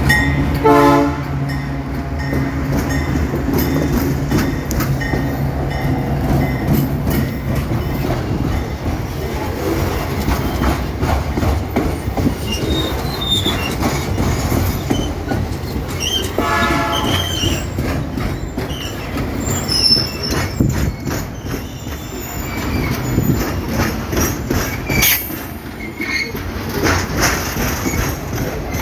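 Freight train passing over a movable-span rail bridge: a steady rumble of wagons with wheels clacking over rail joints and brief moments of wheel squeal.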